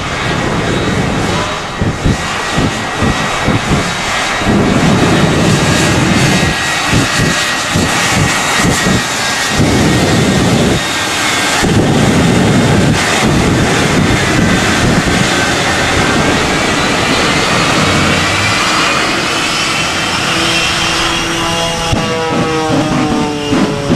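Shockwave jet truck's three jet engines running up while warming up: a steady high whine over a heavy rumble that swells and eases several times. The whine climbs in pitch over the last several seconds.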